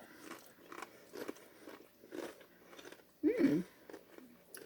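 Crunchy corn tortilla chips being bitten and chewed, with a crunch about twice a second. There is a short hum a little after three seconds.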